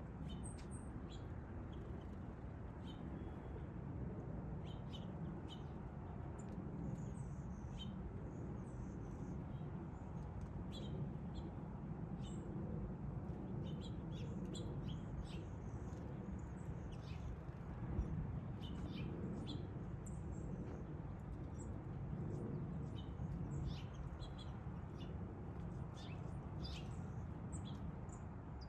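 Songbirds giving many short, high chirps on and off, over a steady low background rumble.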